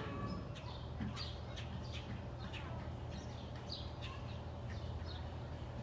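Birds chirping: a string of short, high calls, each falling in pitch, about two a second, over a steady low hum.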